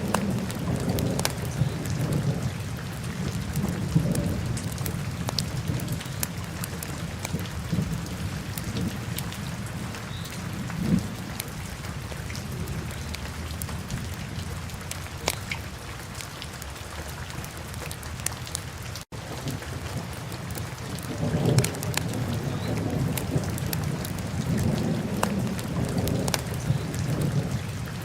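Wood fire in a fireplace crackling, with scattered sharp pops over a low rumble of burning flames. The sound drops out for an instant about two-thirds of the way through.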